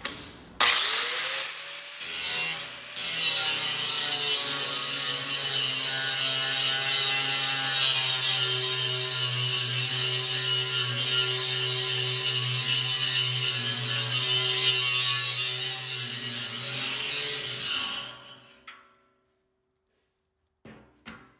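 DeWalt angle grinder with a grinding stone spinning up about half a second in and grinding rust off a steel welding table top with a steady whine, then winding down and stopping near the end.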